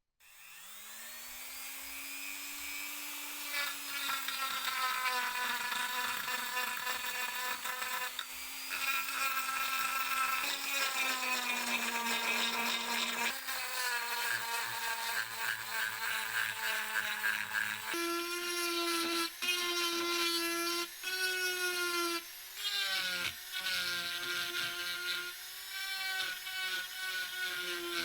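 Handheld electric power tool's motor spinning up with a rising whine, then running steadily, its pitch shifting a little as the load changes. About two-thirds through it steps up to a higher pitch, with a few brief dips near the end.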